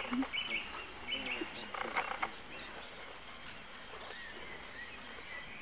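Wild birds singing in woodland: a quick, repeated chirping phrase in the first second, then fainter scattered calls.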